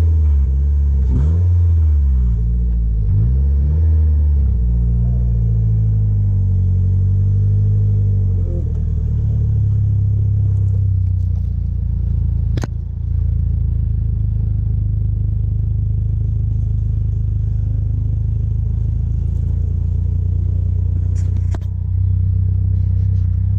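Polaris Slingshot's 2.4-litre Chevrolet Ecotec four-cylinder accelerating, its pitch climbing several times as it pulls through the gears over the first eight seconds, then settling into a steady drone at cruising speed. A single sharp click comes a little past the middle.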